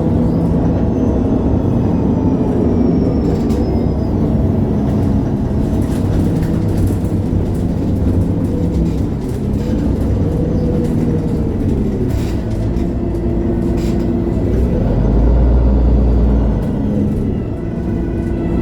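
MAN A23 Lion's City G articulated bus's diesel engine heard from inside the cabin while driving, its pitch rising and falling several times as it pulls through the gears. A deep low rumble swells for a second or two near the end.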